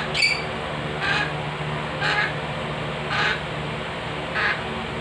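A baby parrot giving five short squawking calls about a second apart, the food-begging calls of a hungry hand-fed chick.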